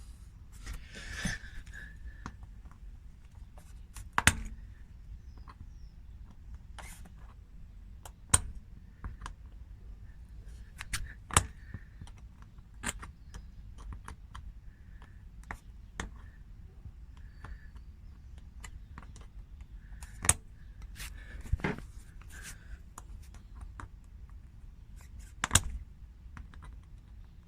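Scattered sharp metallic clicks and taps of hand tools working a screw out of a car tyre's tread, a few louder knocks among them.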